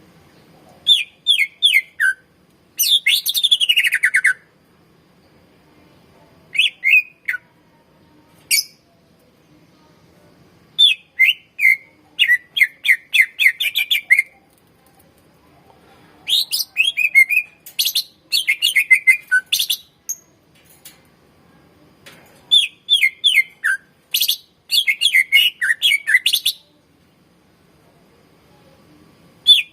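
Cucak ijo (green leafbird) singing loud, rapid phrases of chirps and falling trills. The phrases come in bursts of one to four seconds, broken by short pauses.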